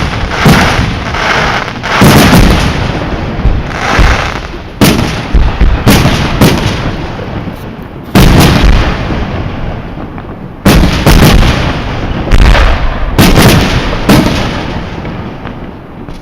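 Aerial firework shells bursting in quick succession: a dozen or so loud bangs, some in close pairs, each followed by a long rolling echo that dies away. The last burst comes about two seconds before the end, and its echo fades out.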